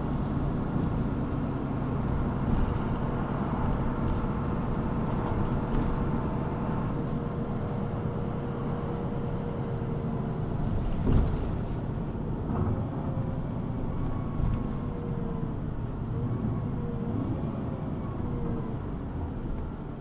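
City bus running, heard from inside the cabin: steady engine and road rumble with a faint whine that drifts in pitch, and a brief hiss with a knock about halfway through.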